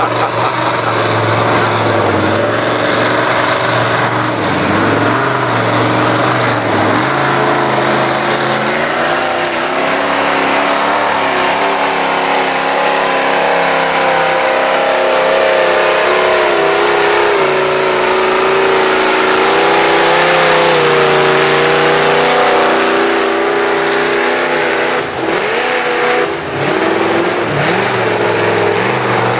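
Off-road mud bogging vehicle's engine held at high revs under hard throttle, its pitch climbing through the middle and staying high, with two brief drops in revs near the end.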